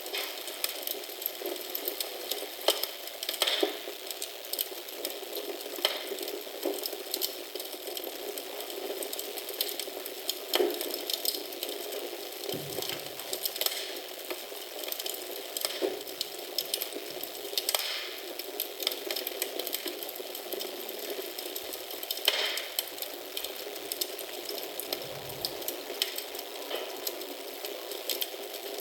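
Wood fire crackling in a fireplace: a steady hiss with frequent sharp pops and snaps at irregular intervals.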